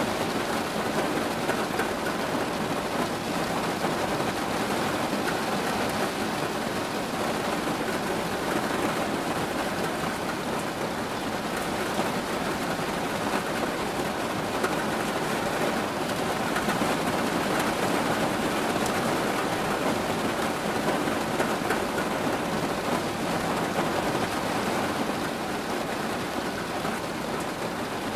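Steady rain falling, an even hiss of drops with faint individual patters.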